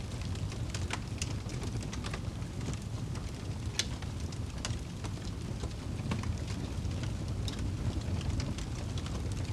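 Wood fire crackling, with sharp pops at irregular intervals over a steady low rumble; the loudest pop comes about four seconds in.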